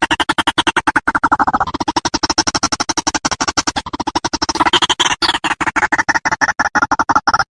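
White-breasted waterhen (ruak-ruak) calling: a loud, rapid, rattling stream of croaking pulses, changing phrase a couple of times, as used for a lure call.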